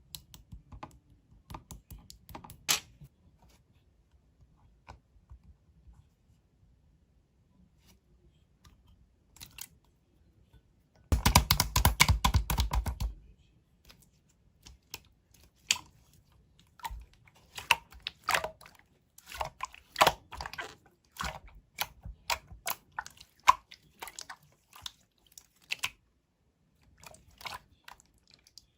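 Glossy blue 'mirror' slime being pressed, poked and squished by hand, giving scattered small wet clicks and pops. About eleven seconds in there is a dense run of rapid crackling clicks for about two seconds, the loudest part.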